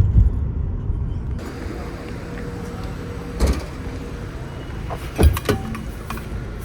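Steady low rumble of a vehicle on the move, with two short knocks, one in the middle and one later on.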